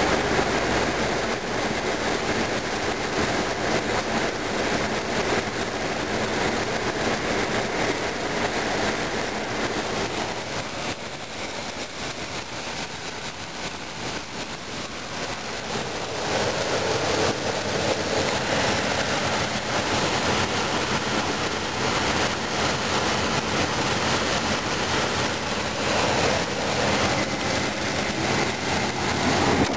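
1985 Chevrolet Caprice small-block V8 running in the open engine bay, with a steady mechanical clatter. The owner takes it for valve knocking from worn camshaft lobes after the timing chain skipped a notch, though he allows it might not be the valves.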